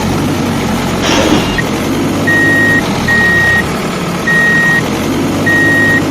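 Truck reversing alarm beeping four times, each beep about half a second long, over a steady truck engine rumble, with a short hiss about a second in.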